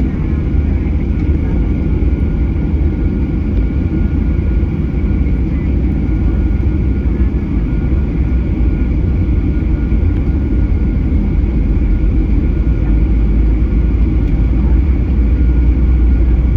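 Boeing 737-800 cabin noise on the ground before takeoff: a steady low rumble with a faint, steady high whine, growing slightly louder near the end.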